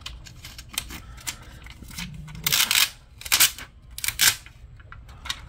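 Small clicks and short scrapes from hands and a tool working on a laptop's internal parts, as its speaker connector is unplugged during disassembly. Three louder scrapes come in the middle.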